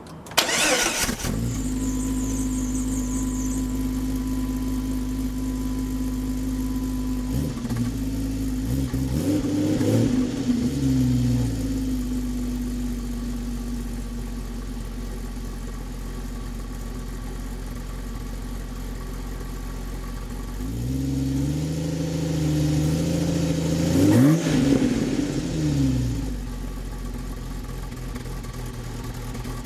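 Jeep Grand Cherokee 4.0-litre straight-six starting about half a second in, then idling through a custom stainless side-exit exhaust with a big stainless muffler box and no catalytic converter. It is revved briefly once and later revved longer with a sharp blip at the top, each time dropping back to a steady idle.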